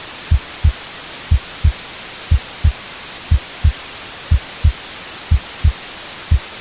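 A heartbeat sound with a double lub-dub thump about once a second, steady and even, over a constant white-noise hiss.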